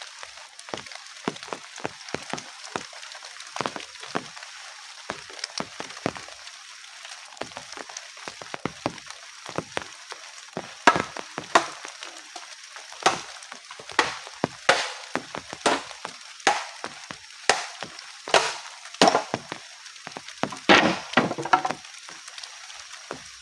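Wood being chopped: sharp strokes come roughly once a second from about halfway through, with a quick cluster near the end, over light scattered clicks and crackles.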